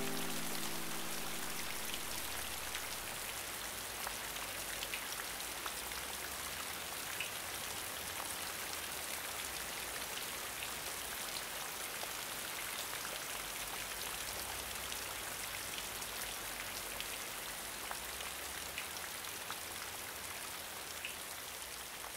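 Steady light rain falling on a pond, an even hiss of many small drops on the water with scattered sharper drips; slowly fading toward the end.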